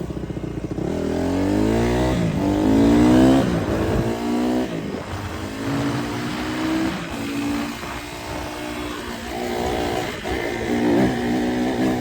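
Dirt bike engine accelerating hard, its pitch climbing and then dropping back at each gear change, several times over; loudest about three seconds in.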